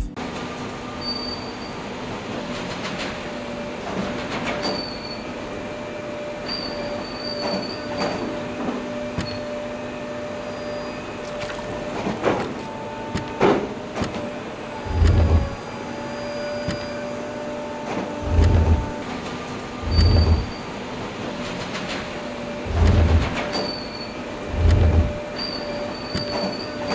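A train running on its rails: a steady rumble with thin, high wheel squeals that come and go. In the second half there are five heavy low thuds, a few seconds apart.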